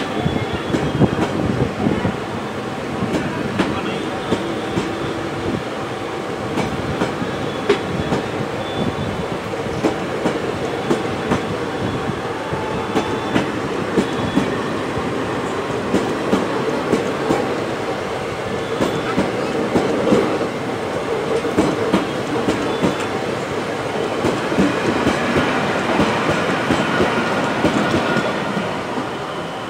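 Indian Railways passenger coaches rolling past at low speed as the train pulls out: a steady rumble of steel wheels on rail, with frequent sharp clicks as the wheels cross rail joints.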